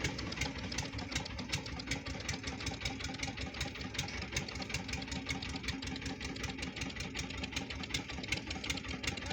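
An engine running steadily at a low speed, with a regular knocking beat of about four ticks a second.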